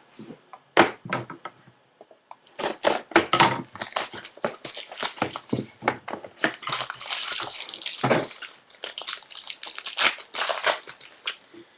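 Trading card packs and cards being handled and opened: irregular crinkling, rustling and small clicks and taps, with a brief lull about two seconds in.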